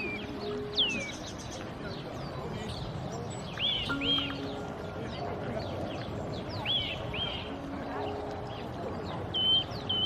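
Small birds singing: sharp falling whistles near the start, pairs of arched whistled notes about four and seven seconds in, and a quick run of repeated notes near the end, over a steady background hiss.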